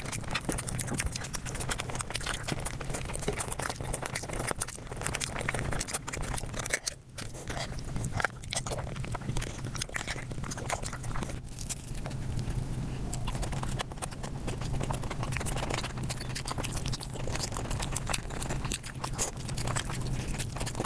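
Mukbang eating sounds sped up five times: a rapid, continuous chatter of chewing and crunching, with a brief drop about seven seconds in.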